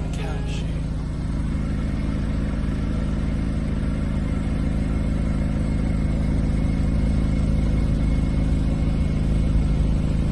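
A car engine running steadily with a low, even hum, growing slightly louder toward the end.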